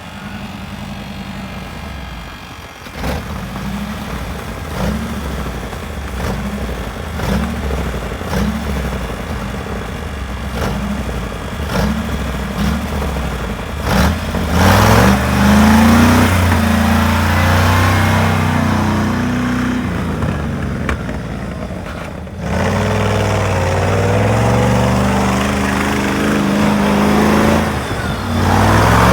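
Car engine running just after a cold start, with an even pulsing in the first half. It is revved up about halfway through, drops back suddenly, and is revved again near the end.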